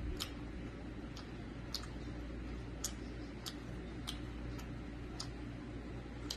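Wet mouth clicks and smacks of someone chewing food: sharp, irregularly spaced clicks, about one or two a second, over a low steady hum.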